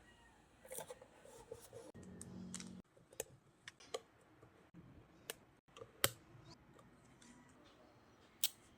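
Scattered sharp clicks and taps from handling paper and craft tools on a work surface, with a brief low hum around two seconds in and the sharpest click about six seconds in.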